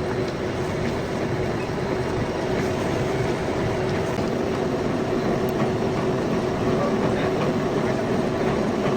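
Metal lathe running steadily, a constant mechanical hum with one steady tone held throughout.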